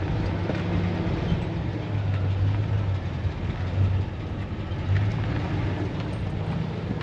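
Pickup truck driving on the road: a steady low engine drone with even road and tyre noise.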